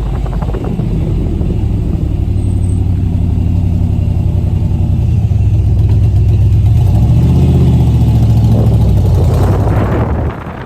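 Car engine running on a cold start, a steady low drone that swells louder and rises slightly in pitch in the middle, then drops back sharply near the end.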